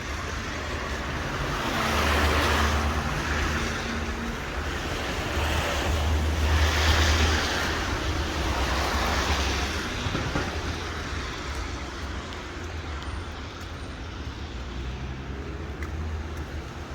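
Road traffic: two vehicles pass, their tyre noise swelling and fading about two and seven seconds in, over a steady low rumble.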